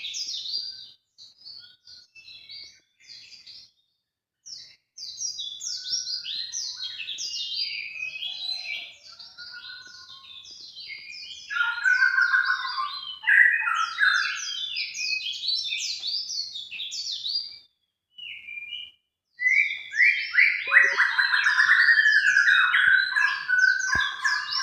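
Recorded bird calls played as a lure to attract wild birds: fast, dense runs of high, falling chirps, with a lower, fuller warbling joining in about halfway and again near the end. The sound cuts out completely twice for a moment.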